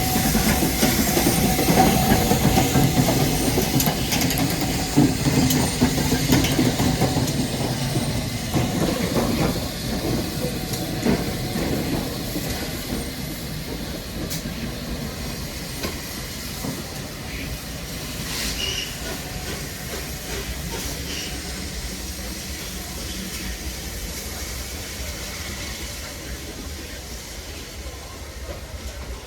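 Steam-hauled train behind LNER Peppercorn A1 Pacific 60163 Tornado running past, with wheel and rail clatter and a hiss of steam, fading steadily as it draws away.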